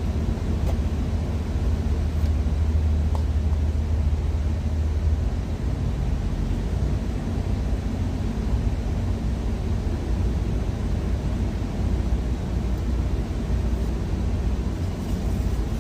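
Truck engine idling: a steady low rumble, heard inside the cab.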